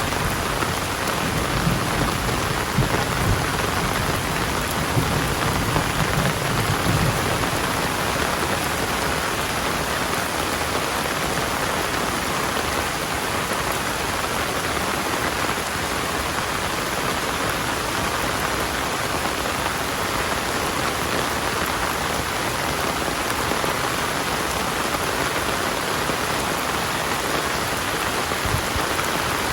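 Heavy rain pouring steadily. A low rumble of thunder runs through the first several seconds and dies away.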